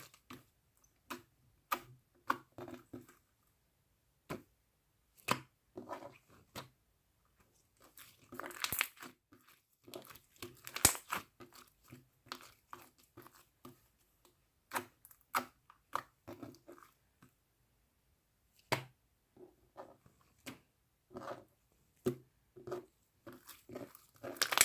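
Mixed slime being squished and stretched by hand, giving irregular clicks and pops, with busier runs about a third of the way in and near the end.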